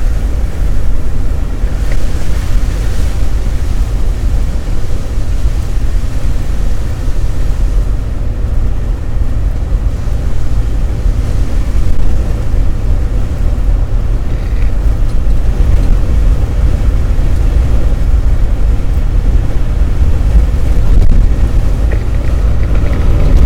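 Steady low road rumble and tyre noise of a car driving.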